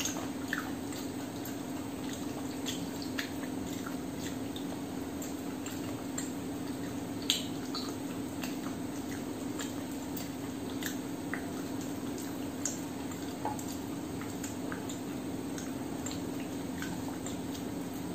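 Close-miked eating sounds: wet chewing and mouth smacks with many small scattered clicks, one sharper click about seven seconds in, over a steady low hum.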